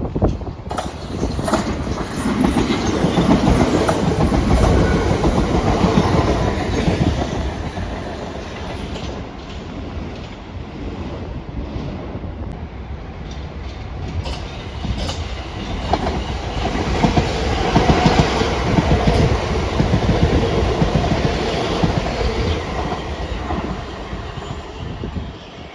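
A train running through a station, with many short wheel clicks over the rail joints. It is loudest about two to seven seconds in and again around sixteen to twenty-one seconds.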